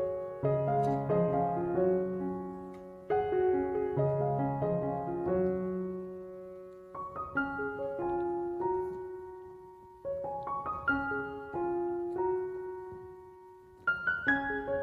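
Background music: a gentle piano melody, phrases of notes that each fade away before the next phrase begins.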